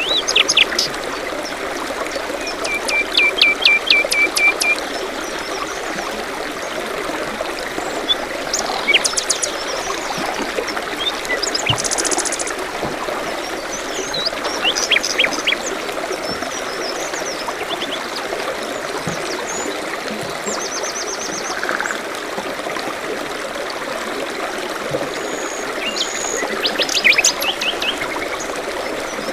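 Forest birds chirping and calling over a steady trickling stream, with one bird's quick run of about eight repeated notes a few seconds in.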